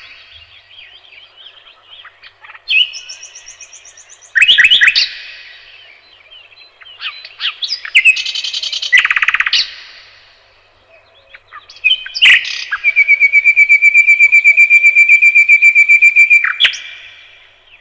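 Common nightingale singing: a series of separate phrases of rapid repeated notes and trills, broken by short pauses, then a long, even trill of about four seconds in the second half.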